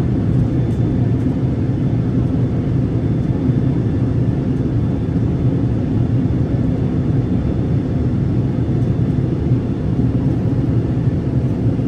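Airliner cabin noise in flight: a steady low rumble of engines and airflow heard from inside the cabin.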